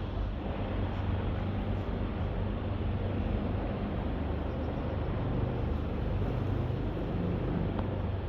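Steady low engine rumble with a wash of noise on board a high-speed catamaran car ferry underway.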